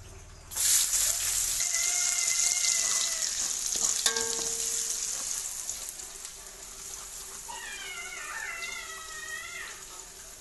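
Chopped onion and garlic dropped into hot reused frying oil in a pan, sizzling loudly from about half a second in and slowly dying down as they fry. Wavering high-pitched calls sound twice in the background.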